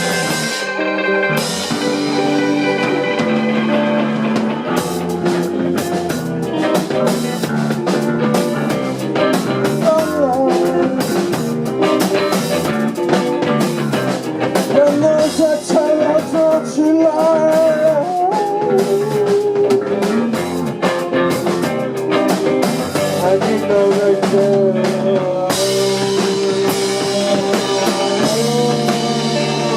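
Live rock band playing a song: drum kit and guitar with a steady beat.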